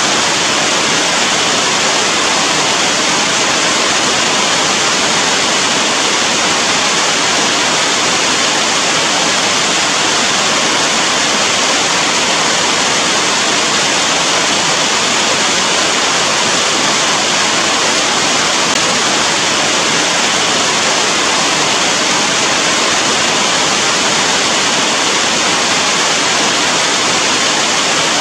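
Heavy rain falling in a steady, dense hiss with no let-up.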